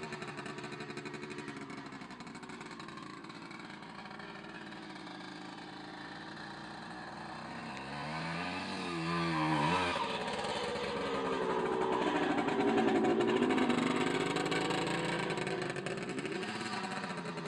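Puch MC 175 motocross motorcycle's two-stroke single-cylinder engine running, its pitch rising and falling as the throttle is worked. About eight seconds in it gets a quick run of revs, then it grows louder toward the middle of the stretch and eases off again near the end.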